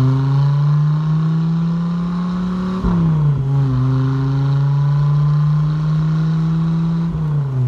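1994 Dodge Viper RT/10's V10 engine pulling under acceleration, its pitch climbing steadily, with a gear change about three seconds in and another near the end where the pitch drops and climbs again.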